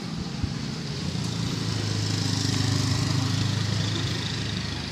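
A motor vehicle's engine going past: a steady low hum that grows louder from about a second in, peaks around the middle and then fades away.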